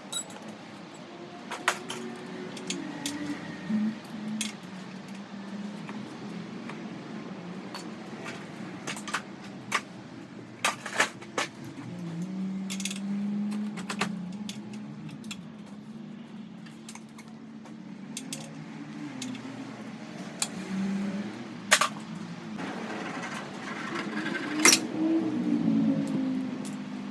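Sharp metallic clinks and clatters of tools and car parts being handled during dismantling, scattered throughout, over a low wavering machine hum that grows louder around the middle and again near the end.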